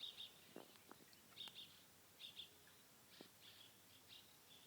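Faint, repeated short chirps of a small songbird, roughly one or two a second, with a few soft clicks in between.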